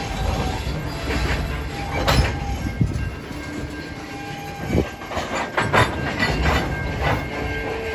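Freight train of railway tank cars rolling slowly past close by: a steady low rumble with several sharp wheel clacks, a cluster of them just past the middle, and a few faint thin squeals.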